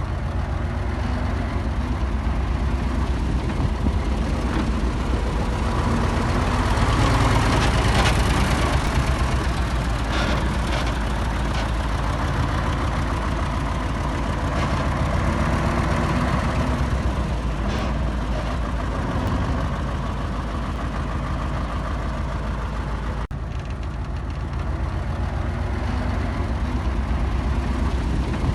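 Heavy diesel engine of earthmoving machinery running steadily, louder for a few seconds about a quarter of the way in, with a brief break near the end.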